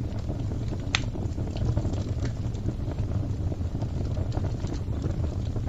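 Wood fire crackling: a steady low rush of burning with scattered sharp pops, the loudest about a second in.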